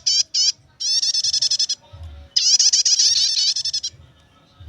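Prenjak (prinia) singing its fast chattering 'nyetater' song: rapid runs of high, sharp repeated notes, about ten a second, in three bursts.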